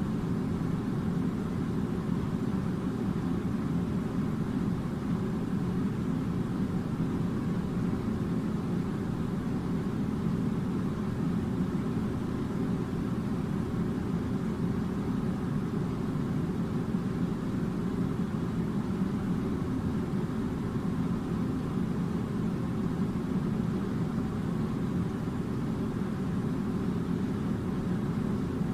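A steady low rumble of machine noise that does not change.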